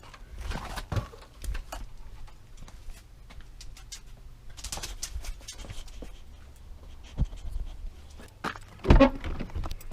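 Irregular clicks and knocks of things being handled, over a faint low hum, with one loud thump about nine seconds in.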